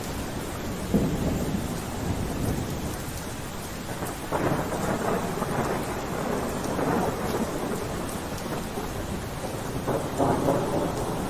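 Steady rain falling, with rolling thunder swelling up about a second in, again around four seconds in, and near the end.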